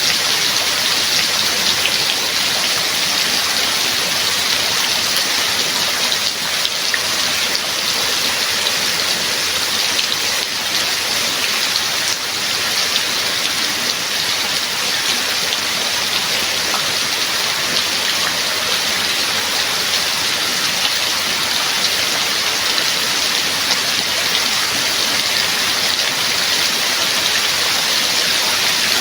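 Steady heavy rain, a dense even hiss of falling rain with scattered drop ticks.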